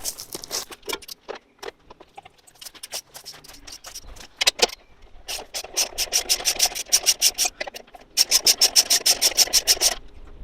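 Socket ratchet undoing the two 3/8 bolts that hold the ignition coil on an older Victa mower engine: scattered clicks and taps as the socket goes on, then two runs of rapid ratchet clicks, about eight a second, in the second half.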